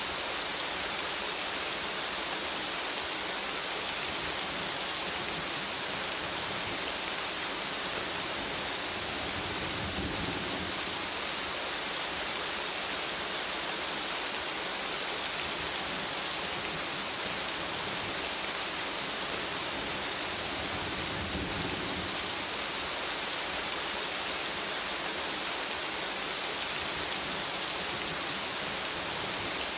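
Steady rain falling on forest foliage, an even hiss with no breaks. A faint low rumble swells briefly twice, about a third of the way in and again past two thirds.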